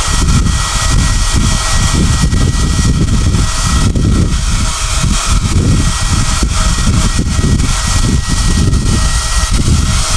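SOUNATE high-airflow hair dryer (XM-H008/YX-HM008-G) running continuously, a steady high motor whine over an uneven low rush of air.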